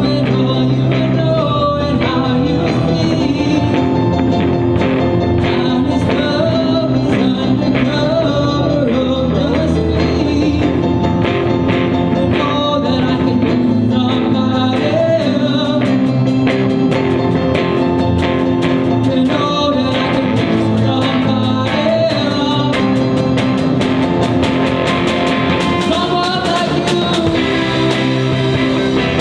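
Student rock band playing live: a vocalist singing into a microphone over keyboard, drum kit and electric guitar.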